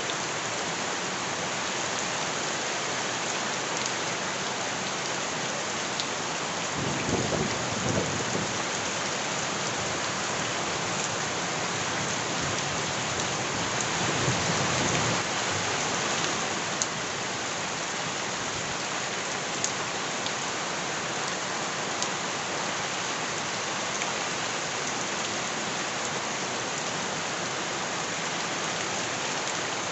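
Steady heavy rain pattering down, with two low rumbling swells, about seven and fourteen seconds in, and a few sharp ticks later on.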